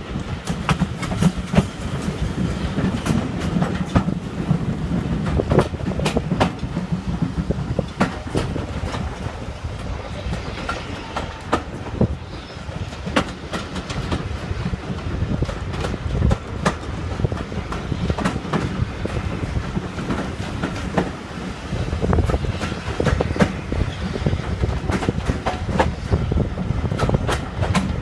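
Heritage railway coach running along the line: its wheels click irregularly over the rail joints above a steady rumble, heard through an open carriage window.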